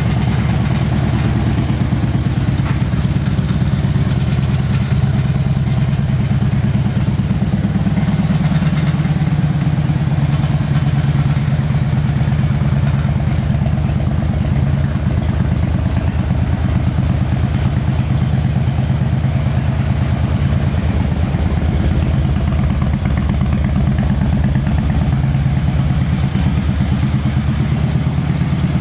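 Harley-Davidson Electra Glide Ultra Classic's air-cooled 45-degree V-twin idling steadily, with an even, low pulsing exhaust note.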